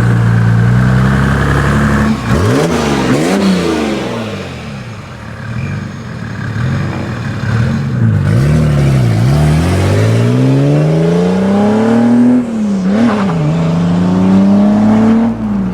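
Modified car's engine revving hard. The pitch is held high at first, then dips and climbs quickly several times. It then climbs steadily for a few seconds, dips sharply about twelve seconds in and climbs again.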